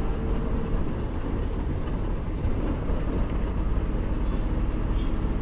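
Steady low rumble of a moving bus's engine and road noise, heard on board, with a faint steady hum.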